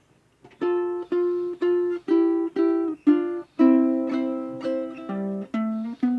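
Ukulele playing the instrumental intro of a song: chords struck about twice a second, starting about half a second in, with a change of chord about halfway through.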